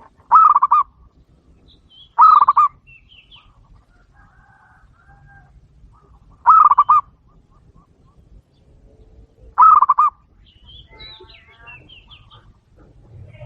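Caged doves calling: four loud, short cooing calls, each a quick run of pulsed notes, a few seconds apart, with faint chirps of small birds between them.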